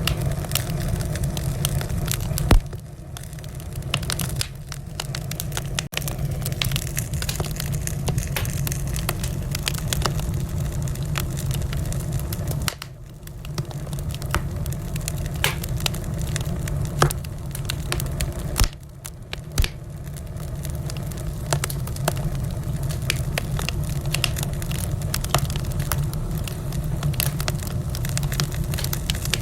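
Wood fire burning in a fireplace: a steady low rumble of flames with many sharp crackles and pops, a few louder pops scattered through.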